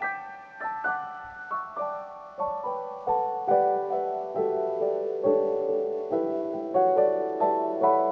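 Soft solo piano music: single notes and gentle chords, each struck note fading away, a melody stepping downward and then settling into lower repeated chords at an unhurried pace.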